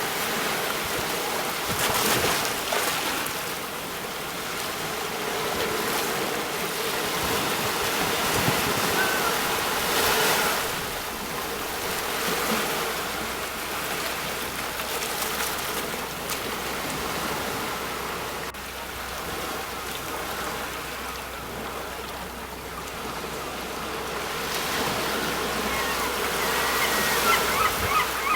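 Sea waves breaking on the shore, a steady wash of surf that swells with each wave, about every few seconds. Near the end a series of short, repeated honking calls begins over the surf.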